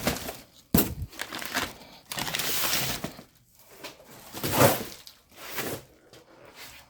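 Packaging being handled and unwrapped: irregular crinkling and rustling of wrapping, with a sharp knock just under a second in.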